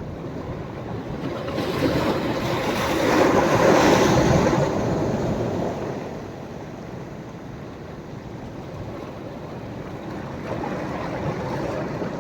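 Sea waves breaking on a beach. One wave builds and breaks about three to four seconds in, then washes back and fades, and a smaller wave comes in near the end.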